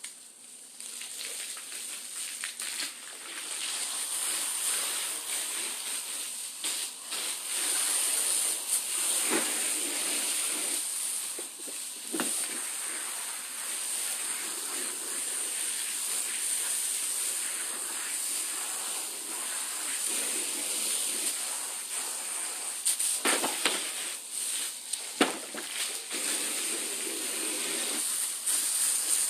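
Water spraying from a hose onto rubber anti-fatigue floor mats to rinse off degreaser: a steady hiss that builds up over the first few seconds, with a few brief knocks near the middle and toward the end.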